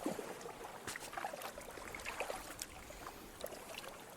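Shallow creek water trickling and lightly splashing around kayaks, with scattered small clicks and drips.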